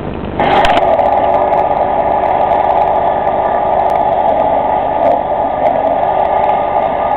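Robinson R44 helicopter running, a steady engine and rotor sound that jumps suddenly louder about half a second in and then holds.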